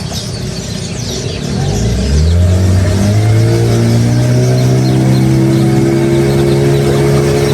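An engine revving up for about a second and a half, then running steadily at a constant pitch.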